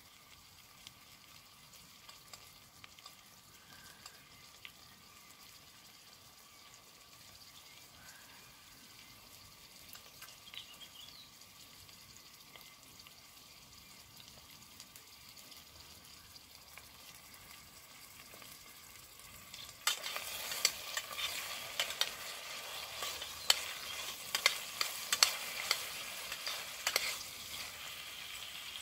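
Chicken curry sizzling in a metal pot while a utensil stirs it, with many sharp clicks and scrapes. The first part is faint, then the sizzling and stirring turn loud suddenly about two-thirds of the way in.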